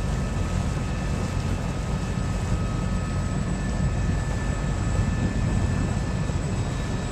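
Steady low drone of a sailboat underway under engine power, running evenly with no change.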